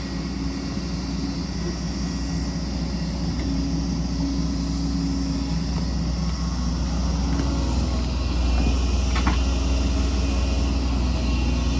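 Diesel engine of a hydraulic excavator running steadily under working load, getting a little louder about eight seconds in, with a faint knock about nine seconds in.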